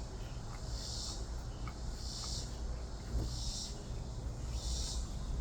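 Insects chirping in a steady rhythm: a hissy, high chirp of about half a second repeating roughly every second and a quarter, over a low steady rumble.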